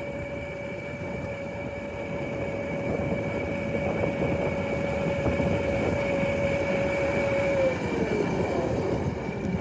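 Motorcycle running at a steady speed, with wind rushing over the microphone. The engine note holds steady, then drops about eight seconds in as the bike slows.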